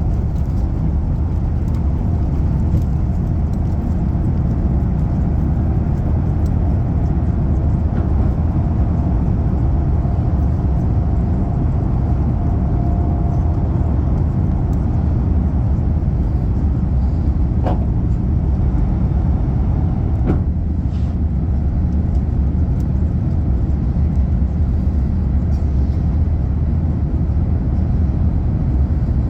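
Steady low rumble inside the cabin of an Airbus A350-900 under takeoff power, its Rolls-Royce Trent XWB engines running at high thrust. A faint held tone comes in near the middle, and two brief chirps sound about two-thirds through.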